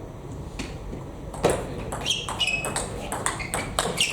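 Table tennis rally: the plastic ball clicking off the bats and the table in quick succession, with a few short high squeaks around the middle.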